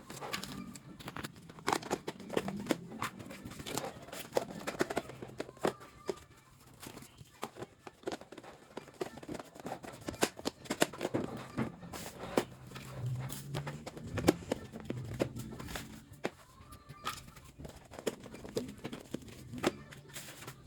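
Irregular clicks, taps and rustling of objects being handled, over a faint low hum.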